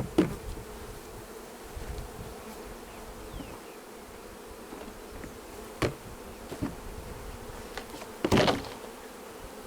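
Honeybees buzzing steadily around an open hive just after installation, with a few short knocks and a louder clatter near the end from hive equipment being handled.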